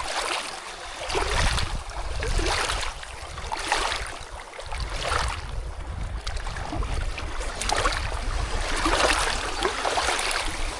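Running water rushing and splashing in uneven swells, with a low rumble of wind buffeting the microphone that drops out for a moment about four and a half seconds in.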